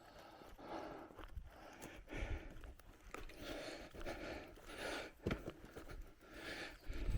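Bicycle riding along a forest trail: a rhythmic swishing from tyres and riding, about three every two seconds, with a few low thumps from bumps in the track.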